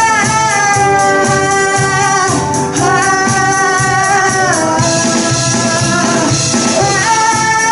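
Live pop band playing a song: a lead singer holds long notes, each lasting a couple of seconds, over drums, bass and keyboard, with a steady shaken percussion beat.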